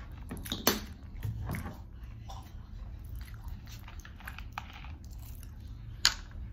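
Close-up chewing and mouth sounds, with the clicks and crackle of a plastic ginger ale bottle being handled and its cap twisted off. A sharp click comes a little after the start and another near the end.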